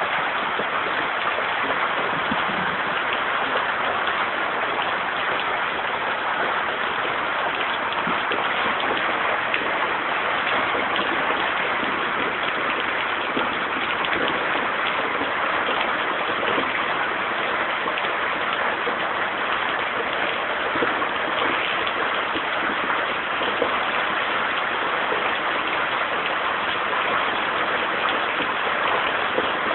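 Heavy storm rain pouring down in a steady, unbroken hiss.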